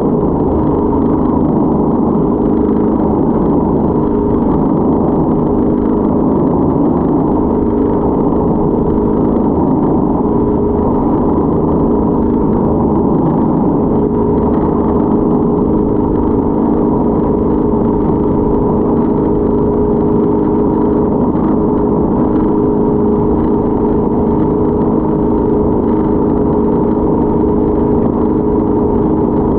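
Motorboat engine running steadily at a constant pitch, a loud, unbroken drone with no change in speed.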